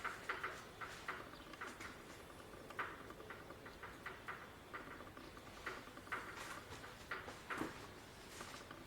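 Faint, irregular clicks and taps, a few a second, from hand tools and bolts being worked on the tractor.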